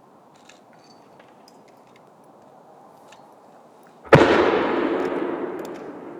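One loud boom from a 10-inch shaku-dama firework shell about four seconds in, followed by a long rumbling echo that fades over about two seconds.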